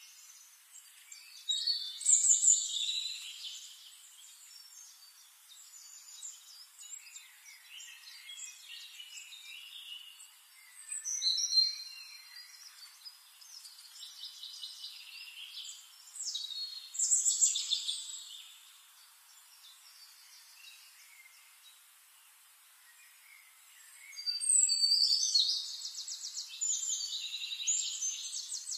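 Birds singing: short bursts of high chirps and trills, four louder phrases spaced several seconds apart, with faint chirping in between.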